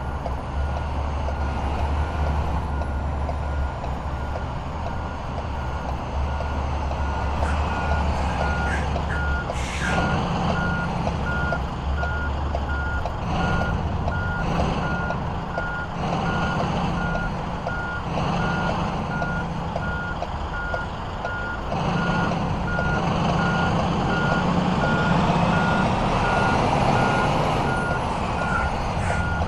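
A truck backing up: its reversing alarm beeps evenly at one pitch over the running engine, with a short hiss about ten seconds in.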